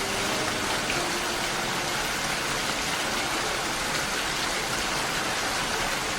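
Steady rain falling, an even hiss, with a few faint held music notes under it in the first second or so.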